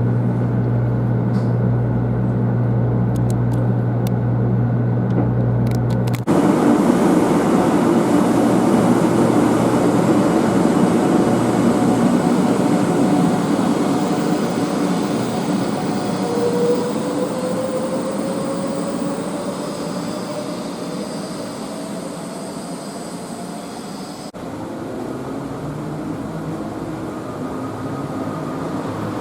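A 500 series Shinkansen train running, heard from inside the carriage as a steady rumble and rushing noise. The sound changes abruptly to a louder rush about six seconds in, and changes back to a quieter texture near the end. A faint whine rises in pitch through the middle.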